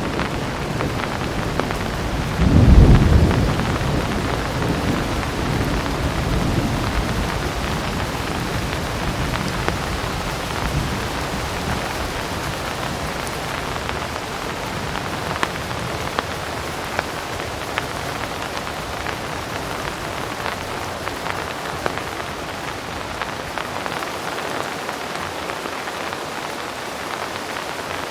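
Heavy rain falling steadily, with scattered sharp drop ticks. A low thunder rumble swells about three seconds in and dies away over the next few seconds.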